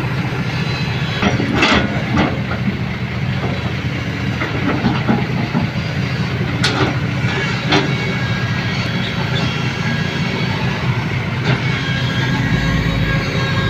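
Heavy vehicle running with a steady low hum, with a few sharp knocks or clanks.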